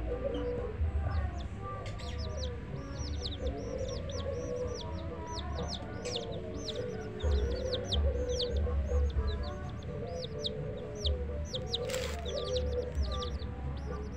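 A hen clucking while a brood of chicks peeps steadily, many short high falling chirps a second. A single sharp click comes near the end.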